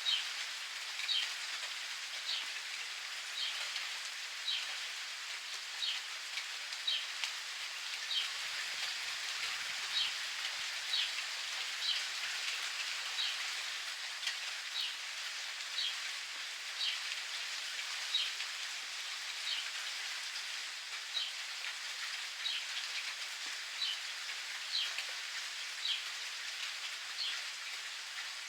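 Steady rain pattering, with a bird repeating a short high chirp about once a second.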